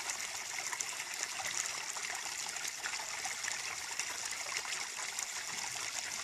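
Small stream of water trickling and babbling steadily over stones.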